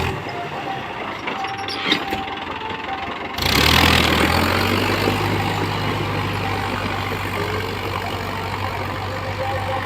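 Tractor engine. The first few seconds are fairly quiet with one click. About a third of the way in the engine comes in suddenly and loudly, then settles into a steady low running note.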